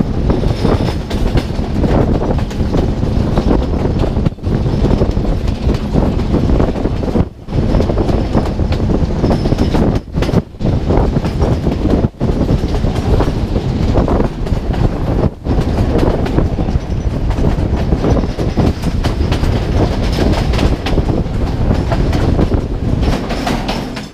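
Sri Lanka Railways intercity express train running along the line: a loud, steady rumble with wheels clattering over the rail joints. The sound drops out briefly a few times.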